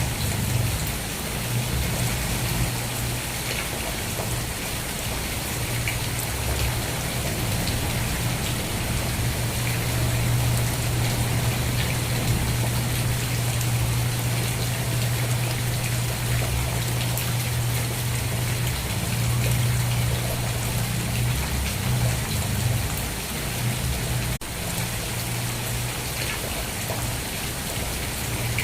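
Steady rain falling, an even hiss of drops with a constant low rumble underneath. There is a momentary dropout about three-quarters of the way through.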